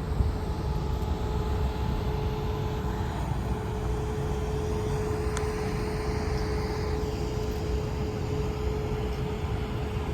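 A car driving along: steady low road and engine rumble, with a thin steady hum above it.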